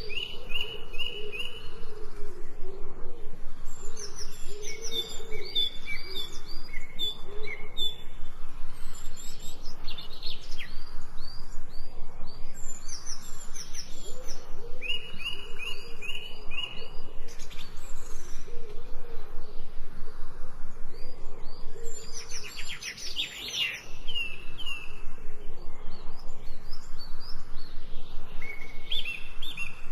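Wild birds singing: runs of short, high chirping notes repeated again and again, over lower warbling notes, with a quick trill about three-quarters of the way through.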